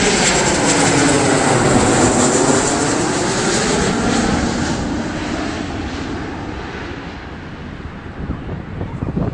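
Airplane flying low overhead near an airport, its engines loud with a rushing, swooshing tone that dips and rises in pitch as it passes. It then fades away over the next several seconds.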